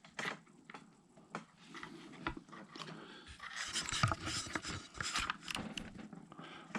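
Hands handling small plastic RC truck parts and wiring: scattered light clicks, taps and rustling as the receiver box and its wire plugs are worked.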